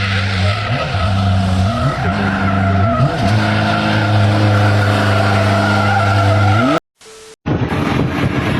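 Car engine running hard with tyres squealing in a skid; the engine's pitch steps up and down a few times early on. The sound cuts off abruptly about two-thirds of the way through, and a noisier vehicle sound follows.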